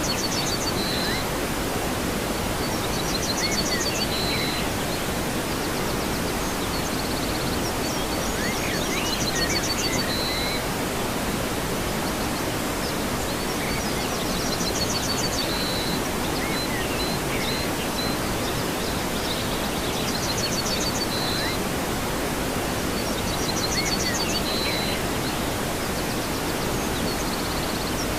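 Steady rush of a waterfall, with short high chirping phrases, like birdsong, recurring about every five to six seconds.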